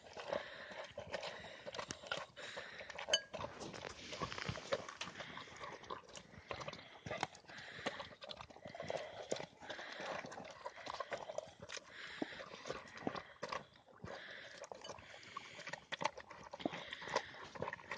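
A dog eating noisily: a rapid, irregular run of clicks and smacks from chewing.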